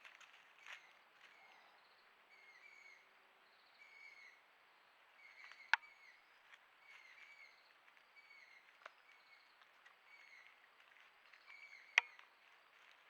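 A bird calling at night, a short chirping phrase repeated every second or so. Two sharp clicks, louder than the calls, come about six seconds in and near the end.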